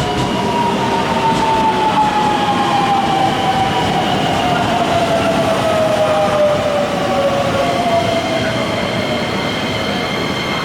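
JR West electric train slowing into the station, its traction motors whining in a tone that falls slowly and steadily in pitch as it brakes, over the rumble of wheels on the rails.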